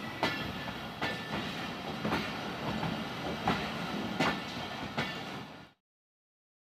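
Samjhauta Express passenger coaches rolling past with a steady rumble, the wheels clacking over rail joints about once a second. The sound cuts off suddenly near the end.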